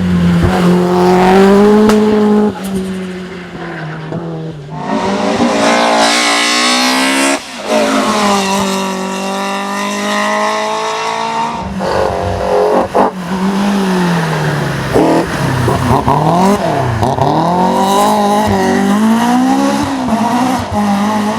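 Racing car engines at full throttle, revving up and dropping back again and again as the cars accelerate, change gear and lift off; the pitch rises steeply in the loudest stretch partway through, and the sound jumps abruptly a few times from one car to the next.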